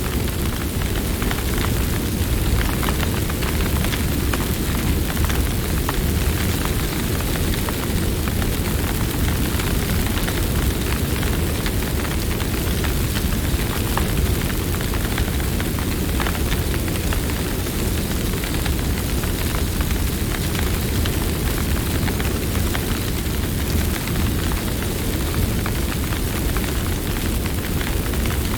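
Campfire burning steadily: a dense low rumble of flames with many scattered small crackles and pops throughout.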